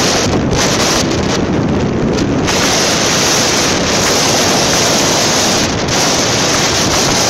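Strong tornado wind buffeting the microphone in a loud, continuous rush. It grows harsher and stronger about two and a half seconds in.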